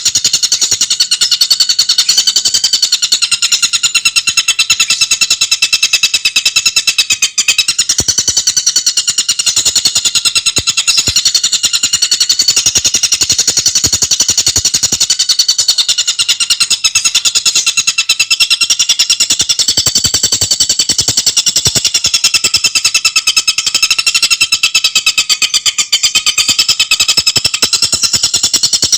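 Tengkek buto bird singing a continuous, very fast chattering song of tightly packed high notes, with a brief dip about seven seconds in.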